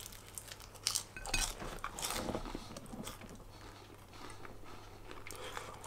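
A person biting into and chewing a crisp piece of food. There are a few sharp crunches between about one and two and a half seconds in, then quieter chewing.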